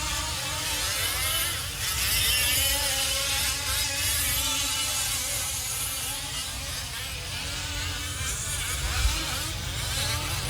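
Several gas-powered 5th-scale RC off-road trucks racing, their small two-stroke engines buzzing and revving up and down in overlapping waves as they run the track.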